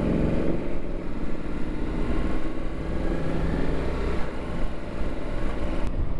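Ducati motorcycle engine running while being ridden, with a steady low rumble and wind noise on the rider's microphone. Its pitch is strongest near the start and then eases off.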